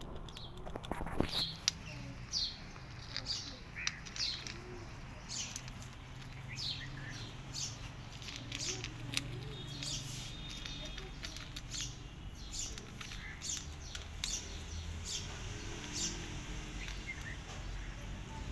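Small birds chirping in short, high, repeated notes, over a cat crunching dry kibble, with a few sharp crunches about a second in.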